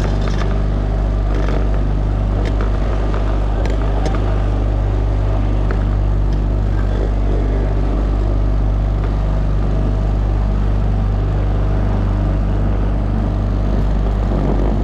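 Motorboat engine running steadily at constant speed, heard from aboard as a deep, even drone.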